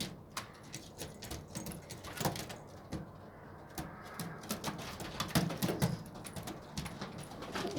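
Domestic pigeons cooing in low bursts, loudest around five to six seconds in, among many scattered sharp clicks and taps.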